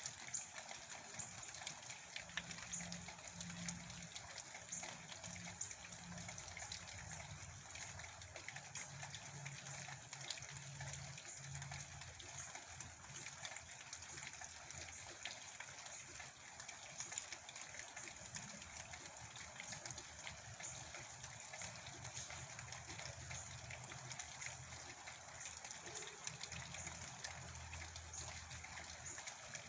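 Steady rain, with many small drops ticking through an even hiss and a faint low rumble that comes and goes.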